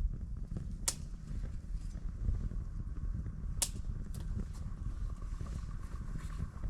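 Wood campfire crackling, with two sharp pops about one second and three and a half seconds in and fainter ticks between, over a steady low rumble.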